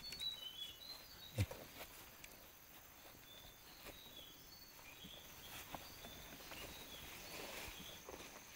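Small birds giving short, high chirps scattered throughout, over soft footsteps and rustling through undergrowth, with a single sharp knock about a second and a half in.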